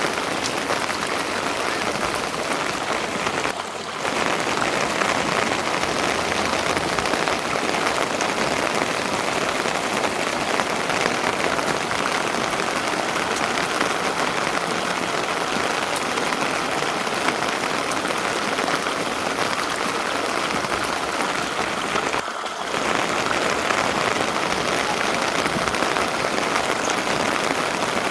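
Steady rain falling: an even, dense hiss of drops that dips briefly twice.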